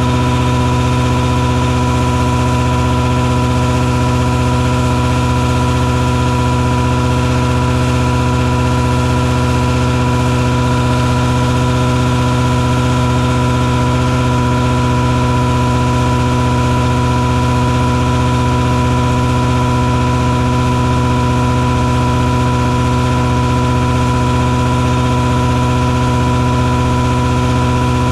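Mosquito fogging truck's engine and truck-mounted fogger running steadily, a constant loud drone with a strong low hum and a steady whine, unchanging throughout.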